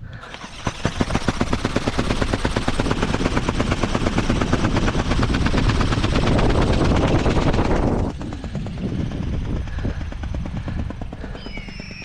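Flapping-wing RC bird's electric motor and wings whirring with a fast pulsing beat, loud at first and dropping away suddenly about eight seconds in, then going on more faintly.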